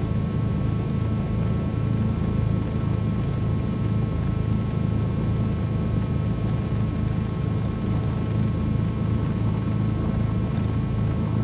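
Twin piston engines of a Cessna 310Q running steadily at low power, heard from inside the cockpit as an even low drone.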